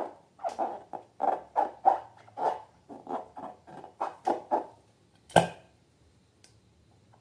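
Slime being squeezed and worked by hand: a quick run of short squelches, two or three a second, then one sharp snap a little past five seconds, after which it goes quiet.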